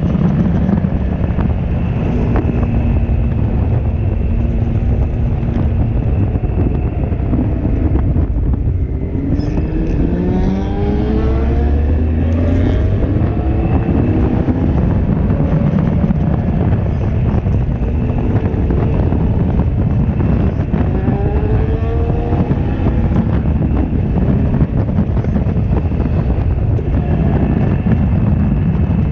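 Honda CB1300's inline-four engine running at speed with heavy wind rush on the microphone. Its pitch climbs in a run of rising sweeps about nine seconds in and again about twenty seconds in, as the bike accelerates.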